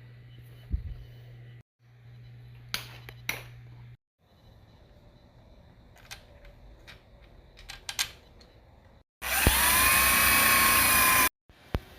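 Scattered light knocks and taps of metal parts being handled, then near the end a power tool runs for about two seconds, its pitch rising quickly as it spins up and then holding steady, the loudest sound here. One sharp click follows.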